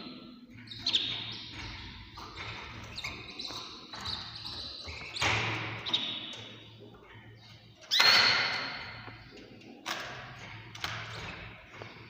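Small caged birds chirping in short, high calls, with a few louder, sharper calls about five, eight and ten seconds in, the loudest near eight seconds.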